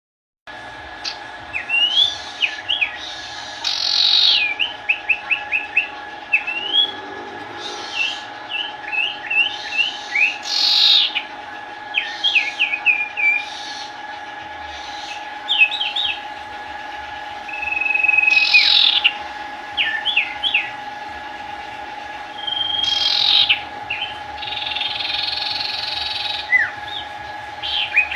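A sirpu songbird singing in full voice, with a busy run of quick chirps and short rising whistles in repeated phrases, now and then a longer held note. A steady hum runs underneath.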